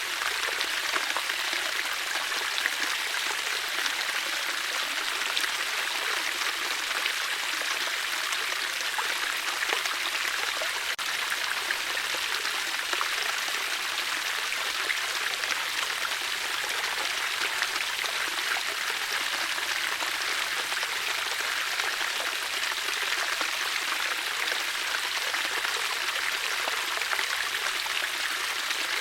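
Water flowing steadily, a continuous even rush like a stream, with no change in level.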